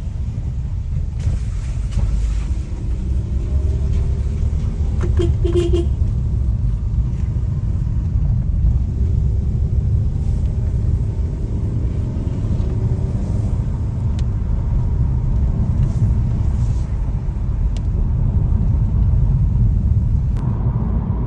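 A car driving on the road, heard from inside the car: a steady low rumble of engine and road noise, with the engine pitch slowly rising and falling as it drives.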